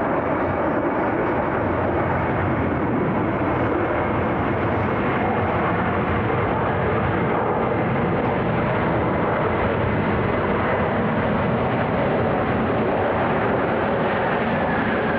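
Steady jet engine noise from a UPS Boeing 767-300 freighter arriving on the runway, with a faint high whine over it.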